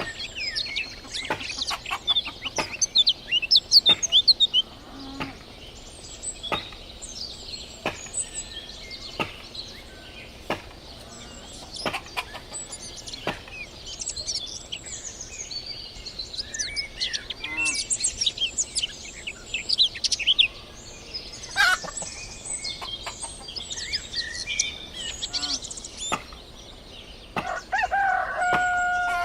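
Many small birds chirping and twittering, with a rooster crowing near the end.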